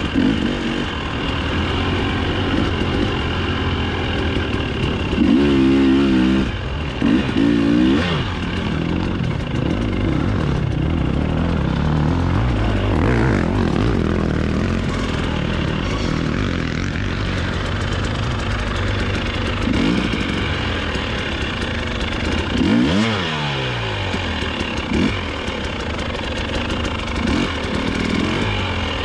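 Dirt bike engine running under load, its pitch rising and falling as the throttle opens and closes. There are quick bursts of revving about a fifth of the way in and again about four-fifths in.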